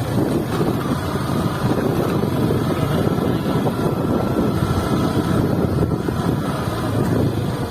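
Motorcycle running at riding speed, with wind buffeting the microphone in a steady rumble.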